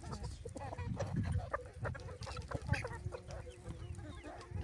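Chickens clucking, with short irregular calls one after another.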